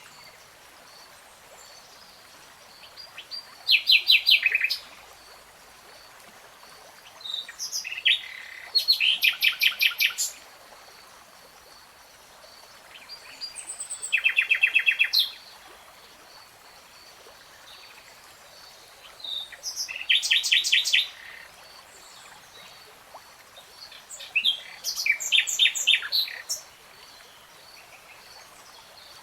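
A songbird singing short phrases of rapid, repeated trilled notes, about five phrases each a second or two long, spaced several seconds apart, over a faint steady background hiss.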